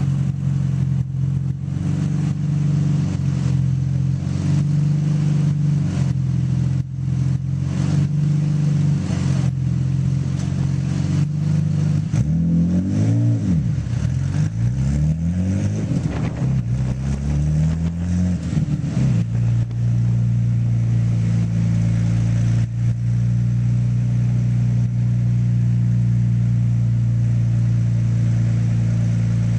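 Nissan Skyline GT-R's twin-turbo straight-six running under load with frequent sharp pops and stumbles, the sign of a misfire. About twelve seconds in it is revved up and down several times, then it settles at a steady, lower engine speed with only occasional pops.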